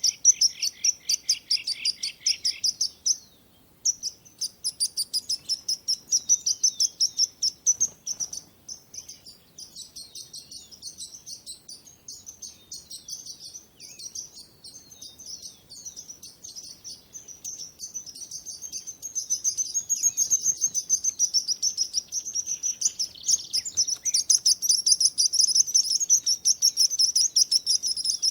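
Many small birds chirping in fast, overlapping high notes, a dense chatter with only a brief break early on, growing louder in the last third.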